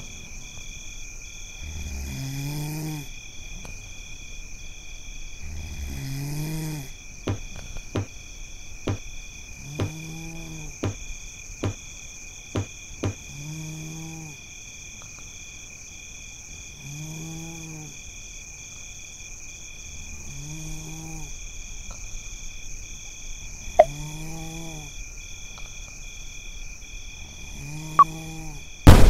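Steady high cricket-like chirring, one strand of it pulsing. Over it, about every two seconds, comes a low pitched call that rises and falls. A run of sharp clicks falls in the middle, and a loud bang comes right at the end.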